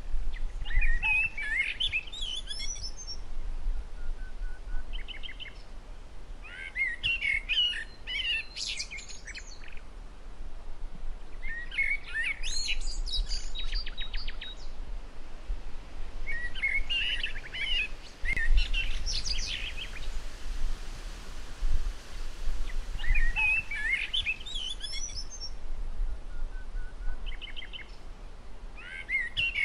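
Songbirds singing, with bursts of chirps and twittering phrases every few seconds and short rapid trills between them.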